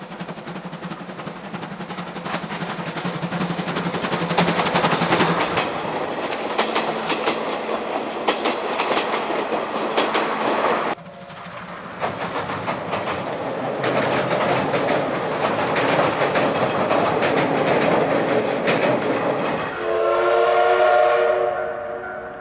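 C12 66 steam locomotive working past with rapid exhaust chuffs and wheels clattering over rail joints, the sound breaking off abruptly about halfway through and resuming. Near the end it sounds a steam whistle blast of several tones lasting about two seconds.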